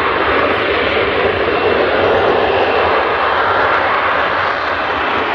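F-35B fighter's jet engine giving a loud, steady roar as the aircraft flies slowly in its lift-fan mode.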